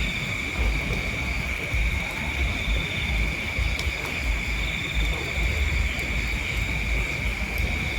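Insects trilling steadily at a high pitch, with wind rumbling on the microphone.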